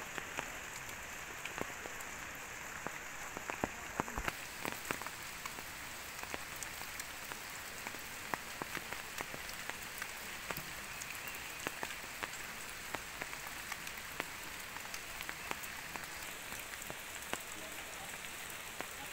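Steady heavy rain falling, with many separate drops striking close to the microphone as sharp little ticks.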